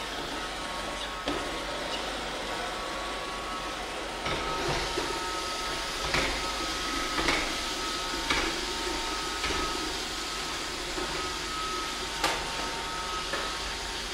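Roomba robot vacuum running, a steady whir with a thin, high whine, and occasional light knocks.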